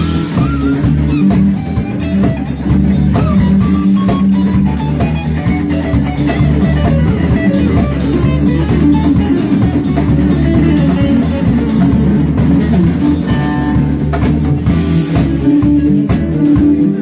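Live band playing an instrumental passage: electric guitar lead over bass and a drum kit.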